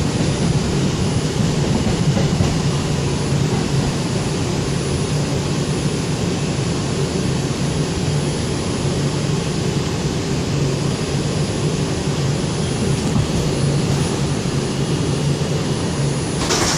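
Steady drone of an R142 subway train, a constant rushing noise over a low hum.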